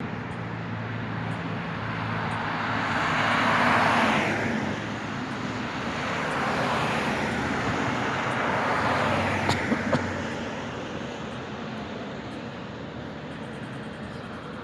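Zagreb tram passing: a rushing rolling noise of wheels on rails that swells twice and then fades, with three sharp clicks just before it dies away.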